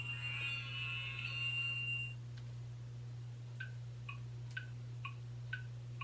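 Electronic sound-book speaker: the end of a short tinny tune dies away about two seconds in, then a run of short, evenly spaced clock-like ticks, about two a second, with a steady low hum underneath.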